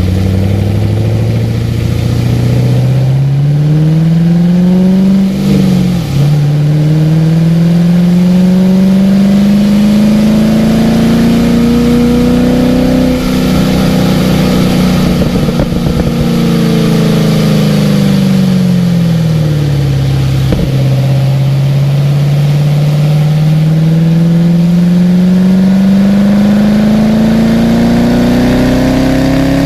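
Car engine pulling hard and changing gear on a racetrack. The pitch climbs, dips at a shift about six seconds in, climbs again, then falls away under lift-off before a sharp drop near twenty seconds and a long climb back up. A steady hiss of spray off the very wet track runs underneath.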